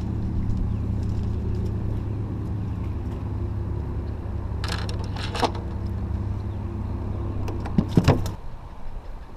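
Small boat motor running steadily with a low hum, then cutting off about eight seconds in. A few knocks sound around the middle and just before it stops.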